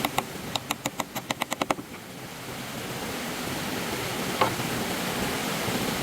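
Stream water rushing steadily, with a quick run of about ten sharp knocks in the first two seconds and one more knock about four and a half seconds in.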